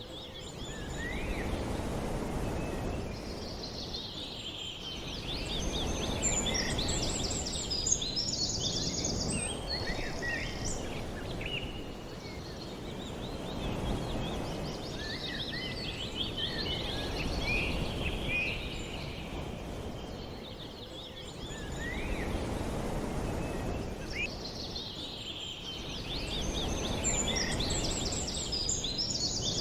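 Outdoor ambience: clusters of small birds chirping high over a wash of steady noise that swells and fades every several seconds.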